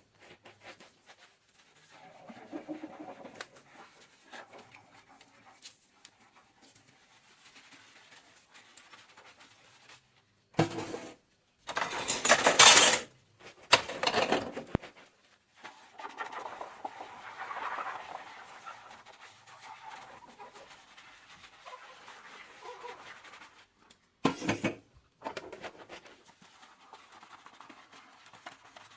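Dishes being handled in a kitchen sink: scattered light clinks and knocks of bowls, containers and pots, with a few short, loud rushing bursts, the loudest just past the middle.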